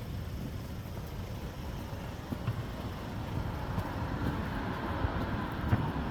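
City street traffic, with a vehicle passing close by and growing louder in the second half.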